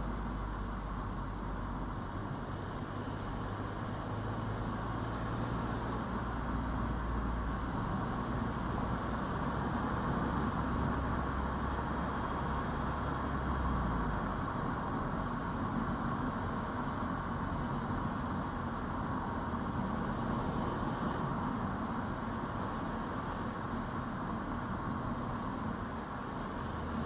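Car driving along a road: steady tyre and engine noise with a low engine drone that shifts a few times and drops away about halfway through.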